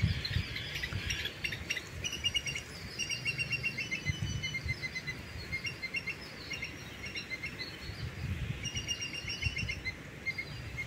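Small birds chirping in quick runs of short, high notes, starting about two seconds in and going on until near the end, over a faint low rumble.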